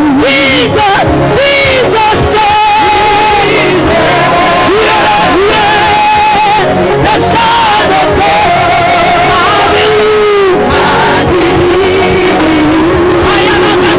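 Live gospel praise-and-worship music: a singer with a strong vibrato over a full band accompaniment.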